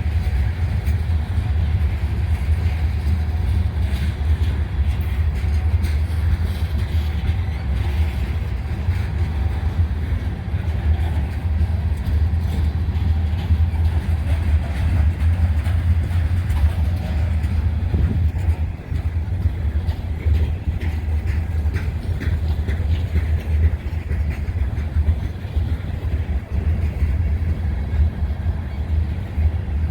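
Freight train of covered grain hopper cars rolling past: a steady low rumble of steel wheels on rail, with some clicking in the second half.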